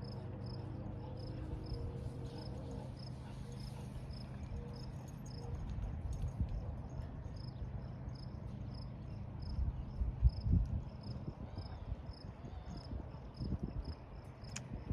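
Cricket chirping steadily, about two to three chirps a second, over a low steady hum. Low buffeting bursts hit the microphone about ten seconds in.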